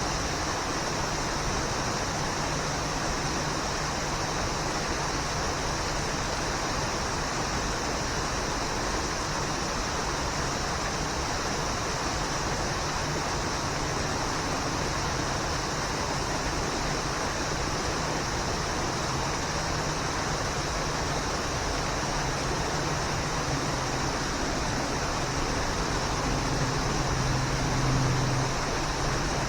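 Steady, unbroken rush of a waterfall. A low hum swells briefly underneath near the end.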